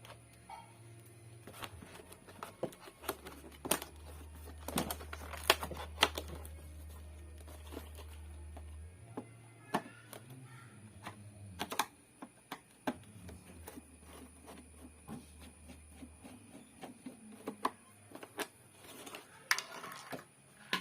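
Irregular sharp clicks and light knocks of hard objects being handled, spaced unevenly, with a quicker cluster near the end.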